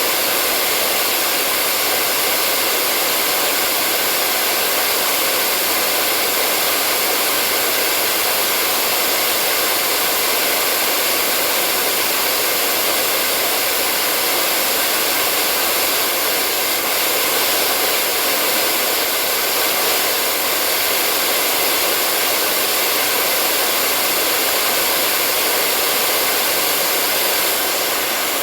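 Hair dryer blowing steadily, a continuous even whooshing rush of air that holds the same level throughout.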